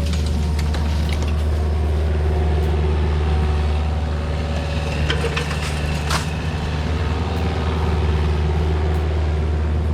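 A heavy earthmoving machine's engine running steadily under load as it clears brush and pushes back trees, with a few sharp cracks about five to six seconds in.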